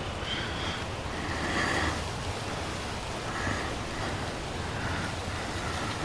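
Steady outdoor wind ambience, a smooth even rush, with a few faint high chirping tones scattered through it.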